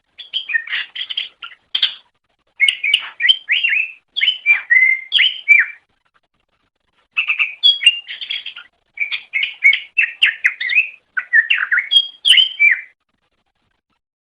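Green leafbird (cucak ijo) singing in fast, varied phrases of chirps, trills and whistled glides, with brief pauses between phrases, falling silent near the end.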